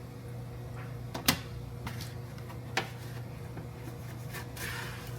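A few sharp household knocks or clicks, like a cupboard, drawer or door, over a steady low hum. The loudest knock comes about a second in and a second one comes near the middle, with a brief rustle near the end.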